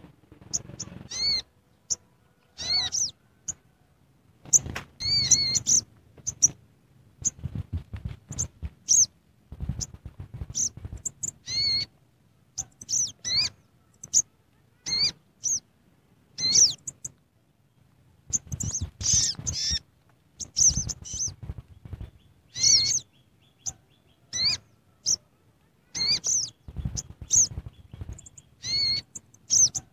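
A bird chirping: many short, high chirps, single or in quick clusters, at irregular intervals, with low thuds under many of them.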